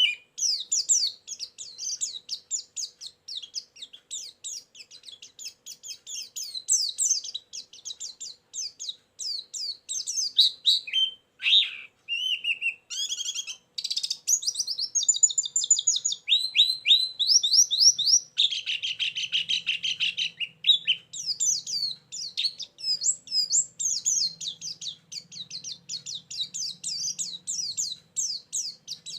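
White-eye (pleci) song: a fast, unbroken stream of high chirps and twittering notes. About two-thirds of the way through it turns into a harsher, buzzy trill for a few seconds before the quick chirping resumes.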